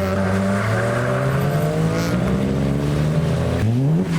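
A modified car's engine pulling away under load, its note rising steadily as it accelerates. Near the end the engine note breaks off and sweeps quickly upward in a short rev.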